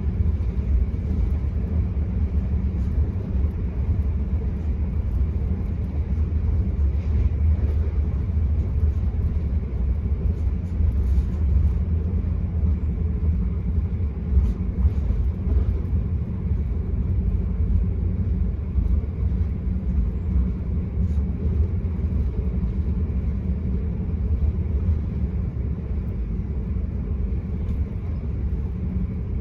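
Enterprise passenger train in motion, heard from inside the carriage: a steady low rumble of wheels on rail, with a few faint clicks.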